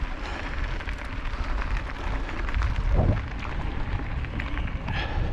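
Fat-tyre bike rolling along a forest trail: a steady low rumble of wind on the microphone and ground noise, with scattered crackles and knocks from the tyres over the ground.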